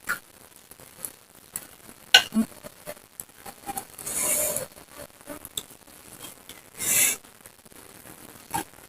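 Close-up eating sounds: scattered wet mouth clicks and smacks while chewing, with two short crunches about four and seven seconds in, typical of biting into raw vegetables or raw jengkol.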